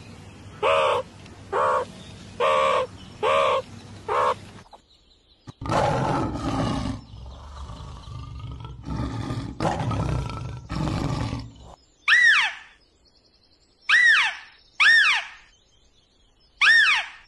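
Three different animal calls in succession. First a series of short pitched calls, evenly spaced. Then several seconds of loud, rough calls, and near the end four short whistled calls that each fall steeply in pitch.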